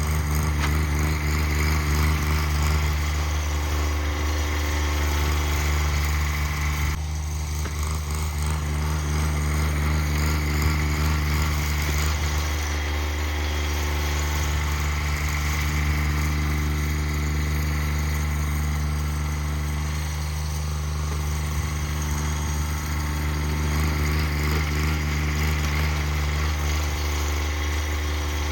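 Cub Cadet 1782 garden tractor engine running steadily at an even speed, with a slight change in its note about seven seconds in and again near twenty seconds.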